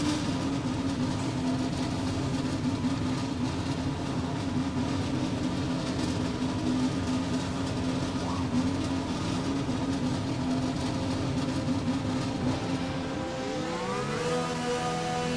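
Renault Formula 1 1.6-litre V6 turbo-hybrid engine running at a steady speed. Near the end its pitch rises and then holds higher.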